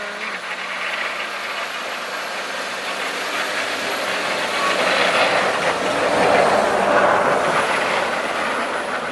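Heavy truck driving past on a snowy street, a rough rumbling noise that swells to its loudest about six to seven seconds in and then eases off.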